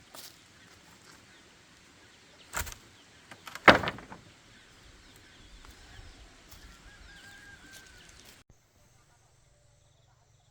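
Two knocks over outdoor ambience, the second one sharp and loud, then a brief wavering call. The sound cuts off suddenly near the end.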